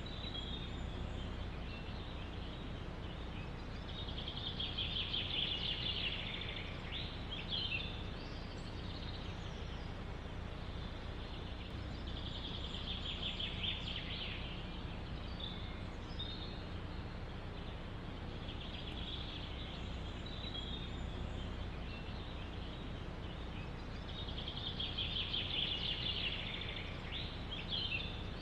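A songbird sings a rapid trilled phrase four times, roughly every seven seconds, each ending in a few quick sweeping notes. Under it runs a steady low background rumble.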